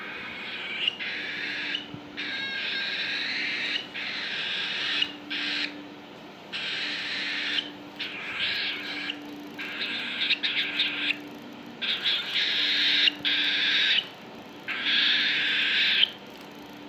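A cockatiel giving a series of about ten harsh, raspy, hiss-like calls, each lasting up to a couple of seconds with short pauses between them.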